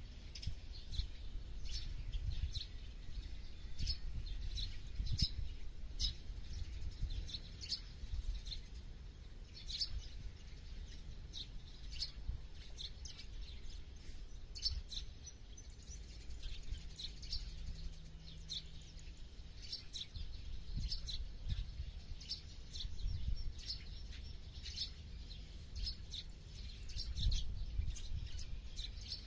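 Several small birds chirping and calling in rapid short notes, over a low rumble.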